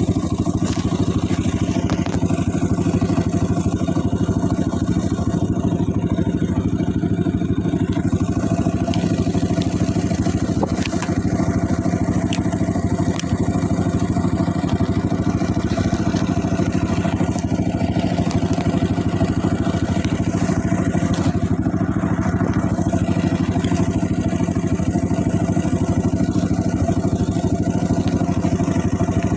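Trail motorcycle engine running steadily at a constant pace, with light rattling.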